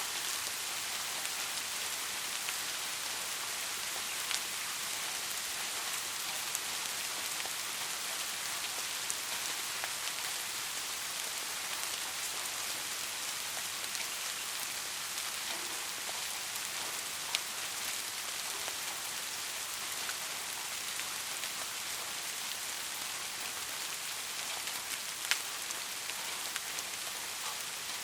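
Steady rain falling on a surface, a continuous hiss with scattered individual drops ticking, a few louder ones standing out.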